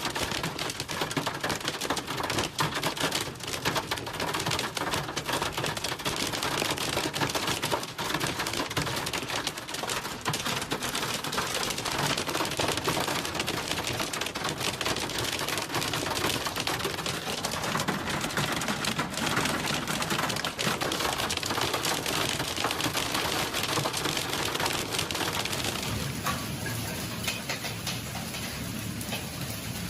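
Hailstones and rain pelting hard surfaces in a dense, continuous clatter of sharp taps, easing slightly near the end.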